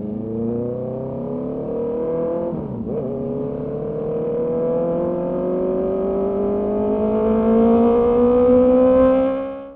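Honda CB650R inline-four engine accelerating hard, its pitch rising, with one quick upshift about three seconds in, then pulling up through the revs again and getting louder before fading out sharply at the end.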